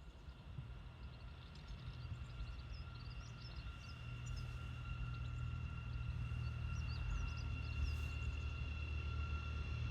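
A low rumble slowly growing louder with a steady high-pitched hum over it, as a train approaches along the line, while small birds chirp.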